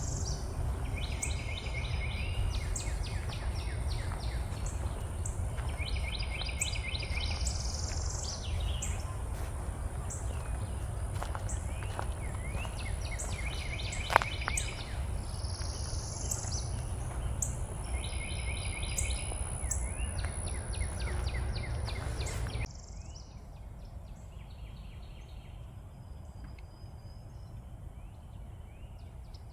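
A songbird repeating a short, fast trilled phrase about every six seconds, over a steady high insect whine and a low rumble. A single sharp click comes about halfway through, and near the end the sound drops quieter while the bird phrases carry on more faintly.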